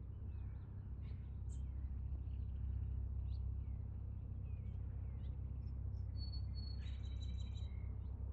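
Birds chirping in short scattered calls, with a run of quick repeated high whistled notes near the end, over a steady low rumble.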